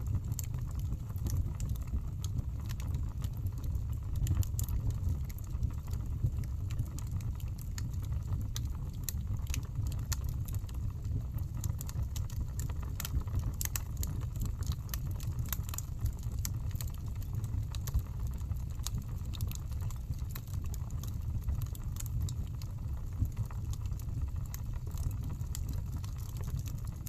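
Wood fire burning in a fireplace: logs crackling with irregular snaps and pops over a steady low rumble of the flames.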